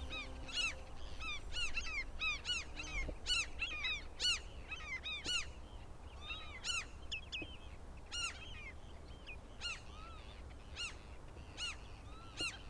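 Birds calling: many short, sharp calls, one to two a second, sometimes overlapping.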